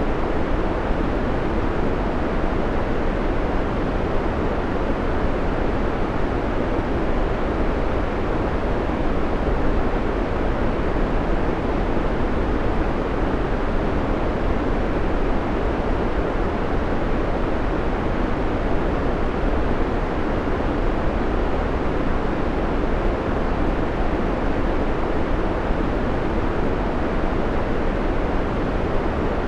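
Steady, unchanging white noise played as a background track: an even rushing hiss, deepest and strongest at the low end.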